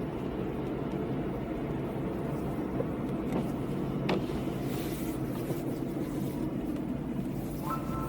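Car driving on a rain-wet road: steady, low road and engine noise with a couple of faint ticks midway. Near the end a steady tone comes in.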